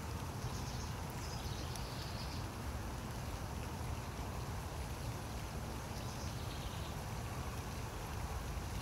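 Steady hiss of light rain falling on grass and leaves, with a low rumble of wind buffeting the microphone.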